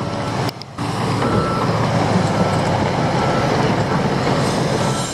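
Heavy construction equipment's diesel engine running under load, with a reversing alarm beeping intermittently over the rumble.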